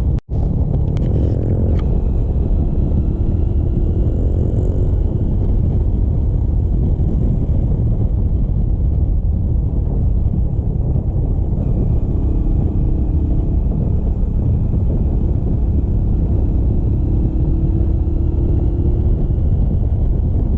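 Motorcycle engine running under way, with a dense low wind rumble on the microphone. The sound cuts out for an instant just after the start.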